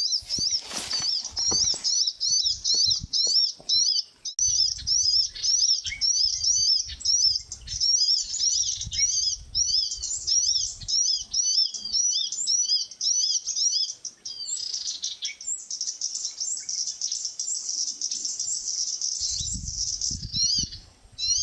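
Small birds chirping high-pitched, quick notes repeated several times a second without a break, turning into a denser, continuous trill in the middle and breaking back into separate chirps near the end.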